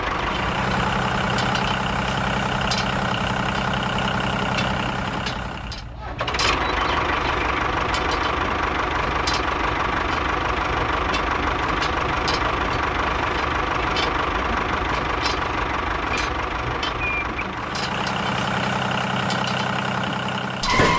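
A vehicle engine running steadily. About six seconds in the sound briefly drops and changes to a noisier run with scattered clicks, and near the end the first steady note returns.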